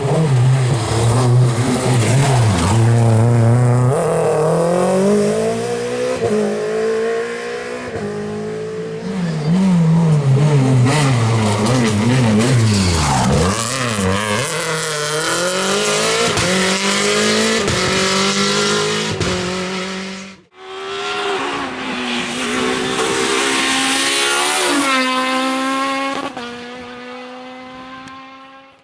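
Rally car engines revving hard: pitch climbing and dropping repeatedly as the cars accelerate, lift and change gear past the microphone. After a sudden cut about 20 seconds in, another car pulls through the gears, each upshift a drop in pitch.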